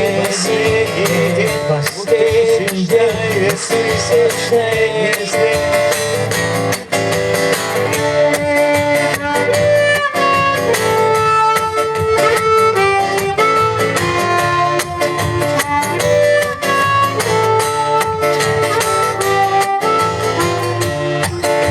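Live band music: a male voice sings the last word of the refrain about five seconds in, then an instrumental passage follows, with guitar under a sustained, stepwise lead melody.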